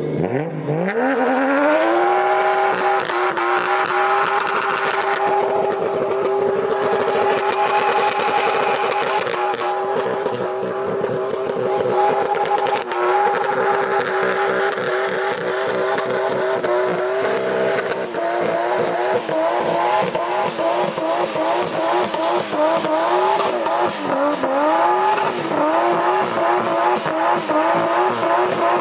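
Toyota 1JZ-GTE turbocharged straight-six revving up hard within about two seconds and held at high revs through a burnout, tyres spinning and squealing. From about eighteen seconds in, the revs bounce up and down over and over.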